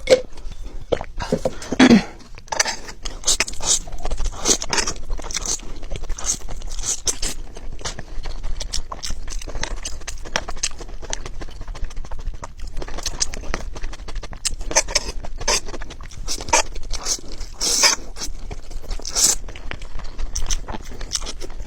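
Close-miked eating sounds: chewing, with a steady run of crisp clicks, crunches and wet mouth noises.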